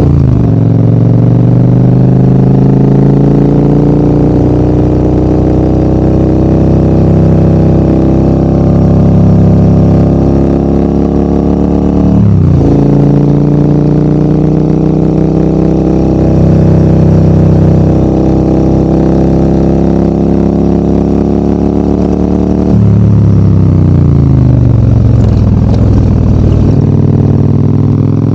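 Motorcycle engine pulling hard uphill, its note climbing steadily as it accelerates. The note falls back and climbs again with each gear change, near the start, about 12 seconds in and about 23 seconds in.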